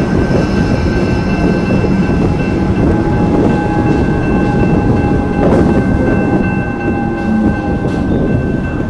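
Electric suburban train running past and pulling away, its wheels rumbling on the rails, with a few steady high tones running alongside. Wind buffets the microphone.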